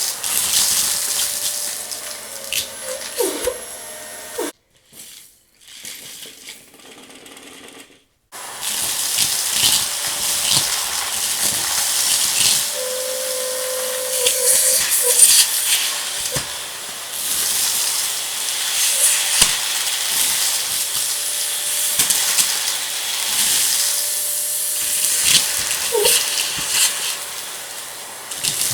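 Vacuum cleaner running on a rug, sucking up crunchy debris that crackles and rattles through it over a steady motor hiss and whine. The sound drops away almost to nothing about four seconds in, then comes back after about four seconds.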